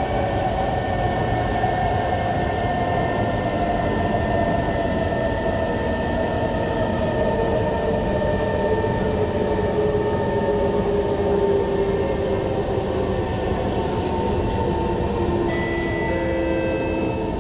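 Kawasaki Heavy Industries C151 train's traction motors whining under the steady running rumble of the car, the whine falling slowly in pitch as the train slows.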